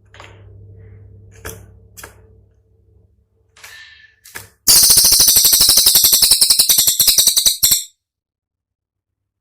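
Cililin songbird giving a few short chirps and clicks over a low hum, then a loud, very fast rattling burst of about three seconds, a dozen or so sharp strokes a second, that cuts off suddenly. This is the sharp, shot-like 'tembakan' phrase.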